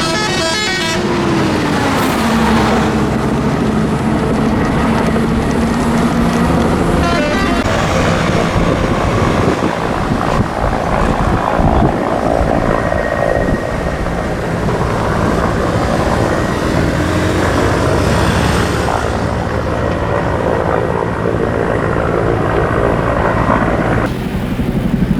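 Motor vehicle engines running, with a horn sounding in the first second. About a second in, one engine's pitch drops and then holds steady.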